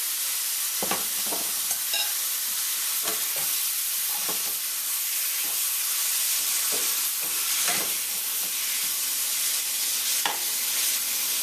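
Seasoned conch pieces sizzling in hot oil and curry in a stainless steel sauté pan, with a spatula stirring and scraping against the pan every few seconds.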